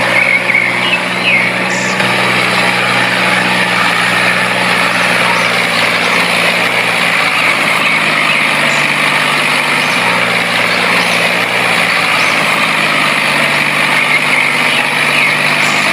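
Steady engine-like drone of a DIY mini tractor running without a break, even in pitch and loudness.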